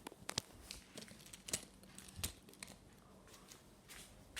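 Light, scattered clicks and taps of plastic toy monster trucks and track being handled, several quick ones early on, then sparser.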